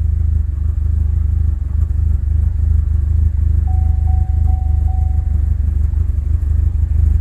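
2013 Cadillac ATS 2.0-litre turbo four-cylinder idling rough, a steady low rumble that swells and dips unevenly, during a misfire. The fuel rail cannot reach its commanded pressure, which the mechanic puts down to a bad high-pressure fuel pump, he thinks. A thin steady tone sounds for about two seconds midway.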